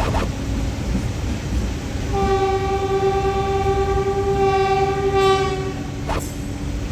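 A train horn sounds one long steady note, starting about two seconds in and lasting about three and a half seconds, over the continuous rumble of a train. A sharp click comes near the start and another about six seconds in.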